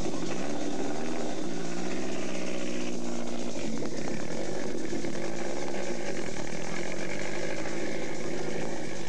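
Lancia Delta rally car's engine running at low revs, its pitch rising and falling again and again as it is revved.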